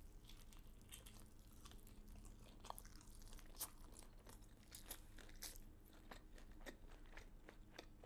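Faint close-up chewing of crunchy food, with scattered small crunches and mouth clicks.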